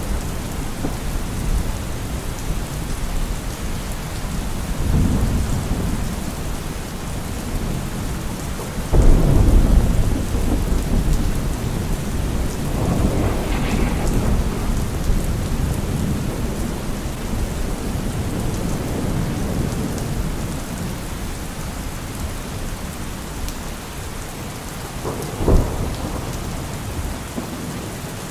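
Heavy rain falling steadily, with thunder rumbling through it: a loud clap about nine seconds in, further rolling rumbles, and a short sharp crack near the end.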